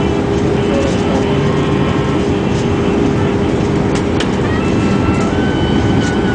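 Airbus A319 passenger cabin noise on the landing approach: the steady rush of the jet engines and airflow, with a constant low hum and a few faint clicks.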